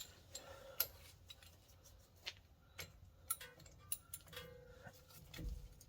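Faint, irregular clicks and light metallic ticks of hand tools and a loosened brake caliper bolt being handled, with a soft low thump near the end.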